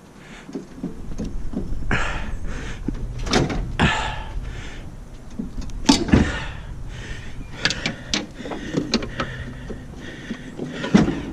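A run of irregular knocks, clunks and scrapes, the loudest about six seconds in, over a low steady rumble.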